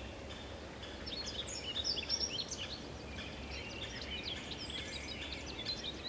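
Small birds chirping and twittering, with many quick high calls tumbling over one another through the middle, over a low steady background rumble.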